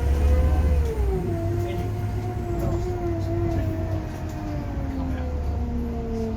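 Scania Omnilink K230UB single-deck bus heard from inside while under way: a low engine rumble with a drivetrain whine over it that falls slowly in pitch, stepping lower near the end.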